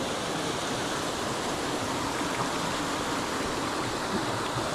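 Mountain headwater stream flowing, a steady rush of water.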